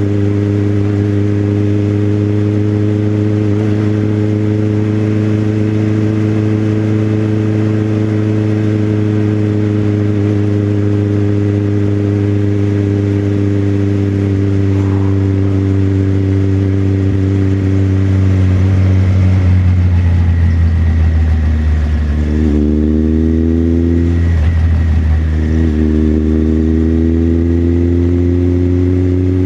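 Motorcycle engine running at a steady cruise, its pitch slowly sinking. About 22 seconds in it revs up, drops away briefly at a gear change and climbs again.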